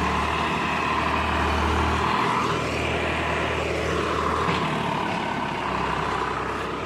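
Diesel engine of heavy machinery running, its note shifting a couple of times as the load changes.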